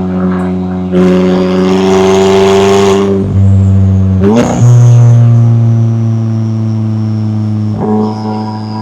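McLaren 570S twin-turbo V8 exhaust running under way with a steady drone that jumps abruptly in pitch a few times. A rush of noise sits over it from about one to three seconds in.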